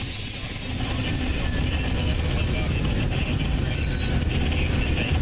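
Freight train running, a steady low rumble with a hiss above it, growing a little louder about a second in.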